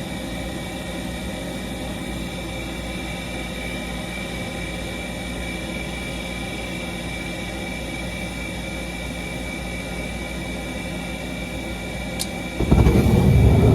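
Trane LP gas furnace running after start-up, a steady mechanical whir with a high steady tone. About a second before the end a much louder rough rumble sets in as the blower fan motor starts and hops around in its loose mount; its cage and band bracket need repair.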